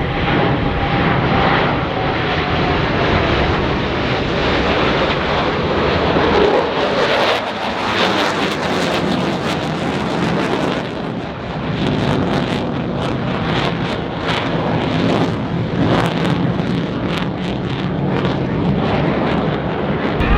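Aircraft flying past at an air show, loud and steady, with a falling pitch about six to seven seconds in. Wind buffets the microphone.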